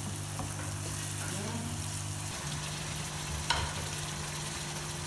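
Bitter gourd and tomato sizzling in oil in a frying pan as a wooden spoon stirs, then a pot of potato masala cooking. A steady low hum runs underneath, and one sharp knock comes about three and a half seconds in.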